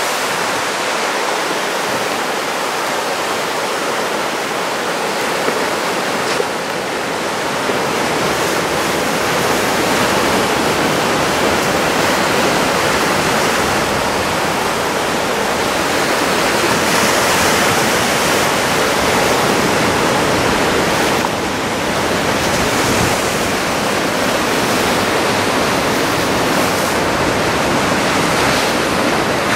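Ocean surf: a steady rush of waves breaking and washing in, swelling and easing now and then.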